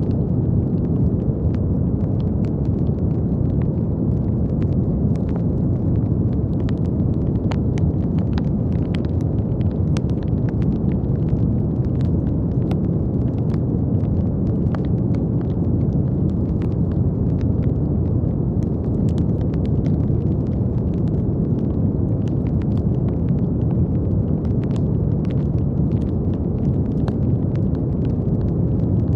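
Brown noise: a steady, deep, even hiss weighted toward the low end, with faint scattered crackles running through it.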